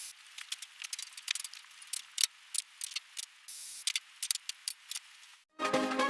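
Irregular sharp clicks and small rattles, like light metal or plastic objects being handled, with a short hiss about three and a half seconds in. Background music with a beat starts near the end.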